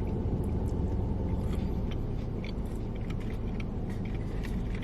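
A steady low rumble throughout, with faint clicks of a person chewing food close to the microphone.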